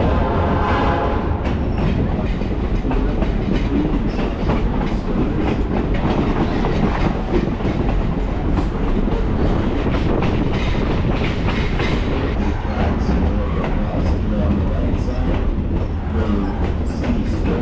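Passenger railroad car riding along the track: a steady low rumble with the clickety-clack of wheels over the rail joints.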